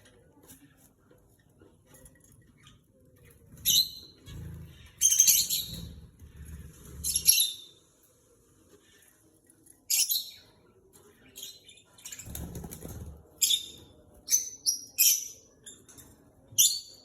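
Small pet birds chirping in short, high, sharp calls that come in scattered clusters, with busier stretches of calls near the middle and toward the end. Twice there is a low fluttering noise, likely wings flapping as the birds move about at feeding time.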